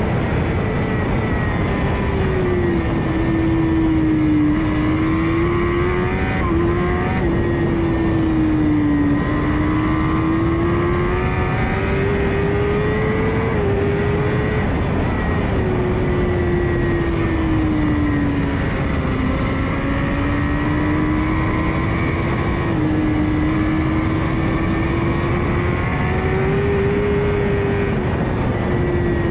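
Kawasaki ZX10 inline-four race engine running hard through a lap, its pitch rising and falling with speed and stepping abruptly at a few gear changes. Heavy wind rush covers it throughout.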